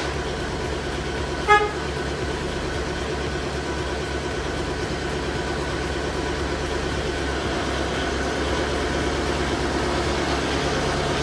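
A single short vehicle horn toot about a second and a half in, over a steady low hum.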